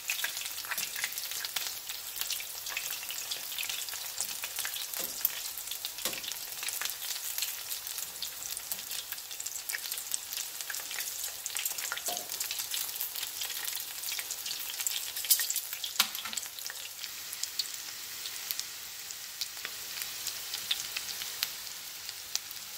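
Corn-tortilla flautas shallow-frying in hot oil in a stainless steel skillet: a steady crackling sizzle full of tiny pops, with a few louder clicks and pops scattered through it.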